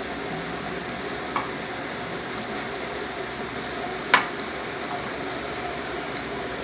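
A spoon stirring glue and slime activator in a plate over a steady hiss, with two sharp knocks of the spoon against the plate, about a second and a half in and again, louder, about four seconds in.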